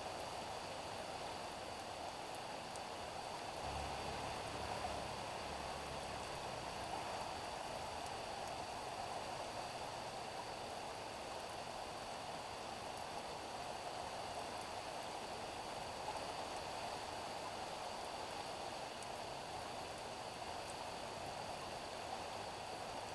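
Steady rain falling on a street, an even hiss of drops. A faint low rumble comes in about four seconds in and fades a few seconds later.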